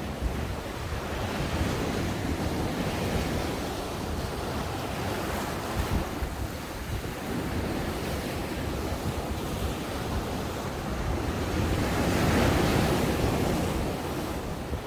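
Ocean surf breaking and washing up a sandy beach, a continuous rush that swells and ebbs, with the biggest wave breaking near the end.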